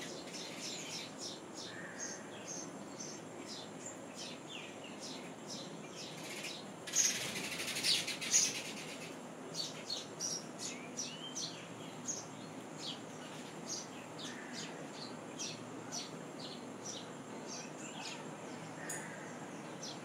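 Small birds chirping: short, high chirps repeated all through, with a louder, denser burst of chirping about seven seconds in.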